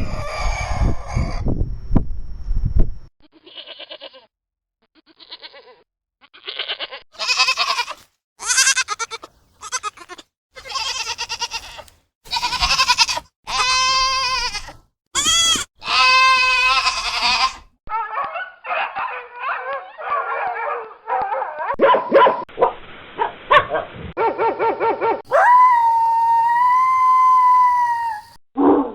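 Goats bleating: a string of separate pitched bleats from several spliced recordings, growing denser after the middle, then one long held call near the end.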